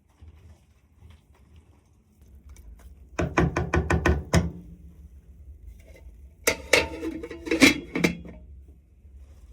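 Two bursts of rapid clattering knocks with a metallic ring, like hard utensils or cookware striking each other, the first about three seconds in and the second near the end.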